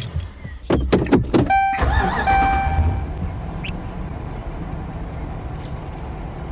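A vehicle's low running rumble, with a few sharp knocks about a second in and two short electronic beeps shortly after.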